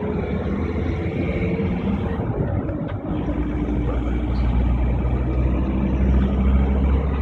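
Road vehicle's engine and road noise running steadily, the low rumble growing heavier about three seconds in.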